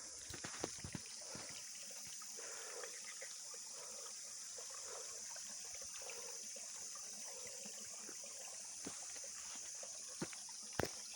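Forest trail ambience: a steady high hiss, with a few footsteps on the trail just after the start and near the end.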